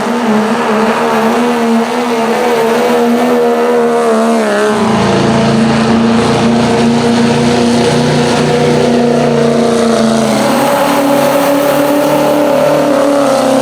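Diesel pickup truck engine running hard and loud under load in a sled pull. Its pitch drops a little about four and a half seconds in and steps up again about ten and a half seconds in.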